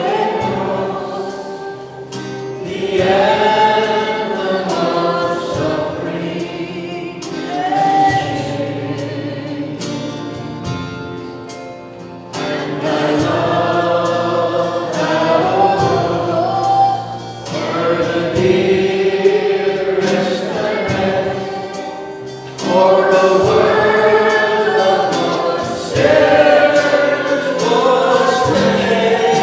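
Gospel hymn sung by a group of voices over instrumental accompaniment, in long held phrases with short breaks between them.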